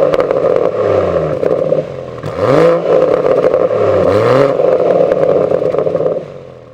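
BMW M140i's turbocharged straight-six exhaust through a BCS Powervalve cat-back system, revving up and dropping back twice, with a loud steady note between the blips. The sound fades out near the end.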